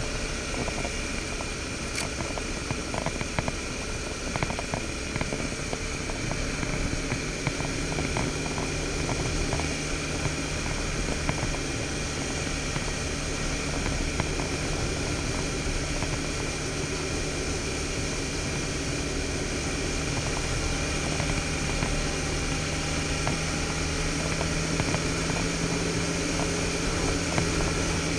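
Suzuki V-Strom 650's V-twin engine running steadily as the motorcycle rides along, under a steady rush of noise. Its tone settles a little higher about eight seconds in and holds there, with a single click about two seconds in.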